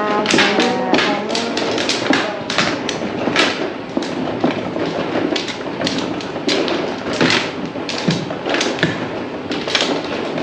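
Mahjong tiles clacking against each other and on the tabletop as they are drawn and discarded, several sharp clacks a second in an uneven rhythm.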